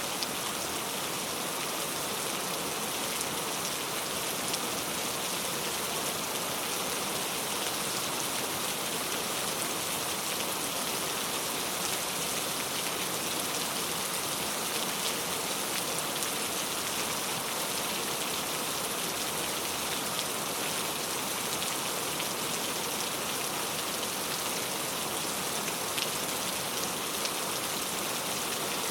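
Steady rain falling, a dense even hiss with scattered fine drop ticks and no change throughout.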